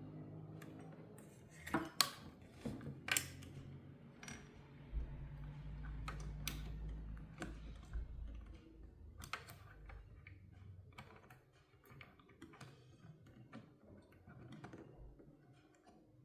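Scattered light clicks and taps of small tools and parts being handled during a subwoofer repair, over a low steady hum that is strongest in the middle and fades in the second half.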